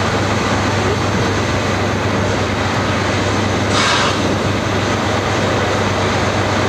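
Steam-hauled excursion train running with a steady rush of noise and a low rumble, with a brief louder burst of hiss a little under four seconds in.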